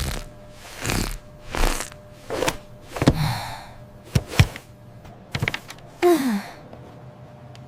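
A series of short, separate thumps and clicks, two of them sharp about four seconds in, then a brief falling voice-like sound a little after six seconds.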